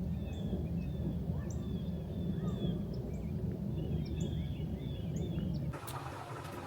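Small birds chirping, many short calls overlapping, over a steady low outdoor rumble. Near the end the sound changes suddenly to a quieter background with a few sharp clicks.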